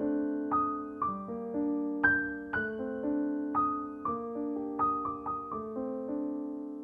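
Background music: a slow, gentle piano melody, single notes struck and left to ring.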